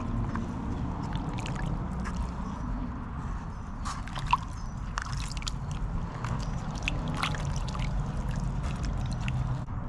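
Wet sloshing and squishing as a slime-rinsed trout is handled by gloved hands, with scattered small clicks and a sharper tick about four seconds in, over a steady low hum.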